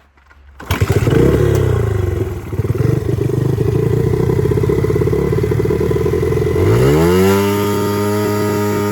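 Single-cylinder engine of a Chinese pit bike started up again after stalling on its own. It catches suddenly under a second in and runs unevenly, then revs up about seven seconds in and holds at a steady, higher speed.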